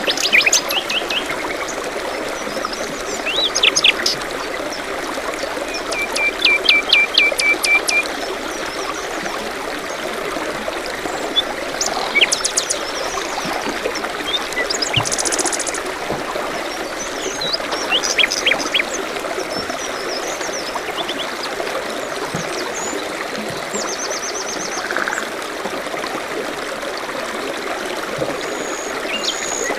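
A small stream trickling steadily, with songbirds calling over it in short high chirps and sweeping notes, including a quick run of repeated notes and a brief fast trill.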